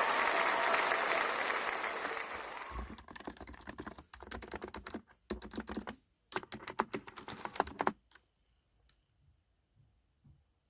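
Typing on a COX Original Retro keyboard with light 35 g switches: quick runs of key clicks for about five seconds, broken by short pauses. Before the typing, a haze of noise fades out over the first couple of seconds.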